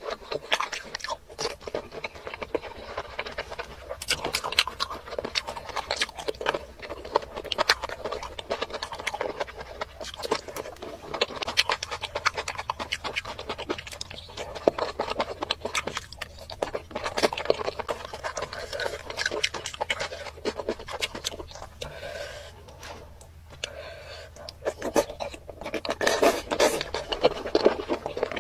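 Close-miked eating sounds of squid, octopus and shrimp in thick spicy sauce: wet, sticky chewing and lip-smacking in dense, irregular clicks, easing off briefly near the end before picking up again.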